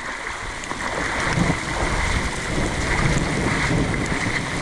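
Steady rushing noise of a river in rain, with wind rumbling on the microphone.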